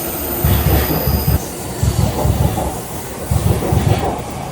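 A train running on rails: a loud low rumble that surges about once a second, with a thin high whine that stops about a second and a half in.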